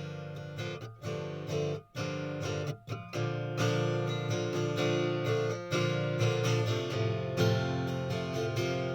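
Acoustic guitar strummed chords, an instrumental break with no singing. Two brief gaps come about two and three seconds in, then steady strumming resumes.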